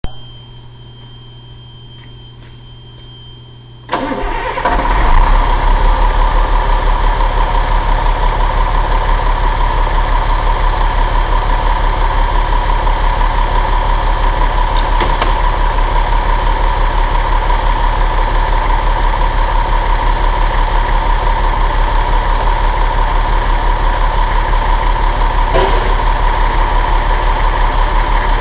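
Caterpillar 3126 inline-six diesel engine firing up about four seconds in, after a few seconds of low steady hum, then idling steadily with an even, fast pulse.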